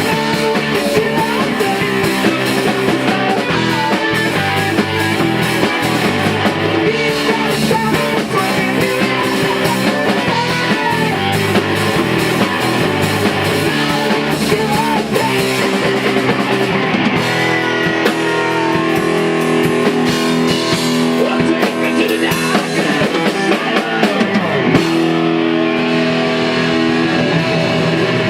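Rock band playing a song at rehearsal, with electric guitars over a drum kit and bass.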